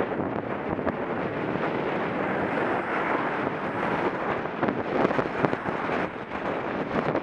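Wind rushing over a Contour action camera's microphone while riding a bicycle, a steady rough noise broken by frequent small knocks and rattles.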